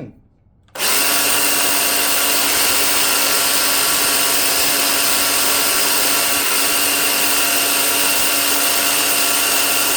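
Milwaukee electric chainsaw switched on less than a second in and running steadily at full speed: a constant motor and chain whine with a hiss, as the chain is run against a sharpening stone to even out the cutters.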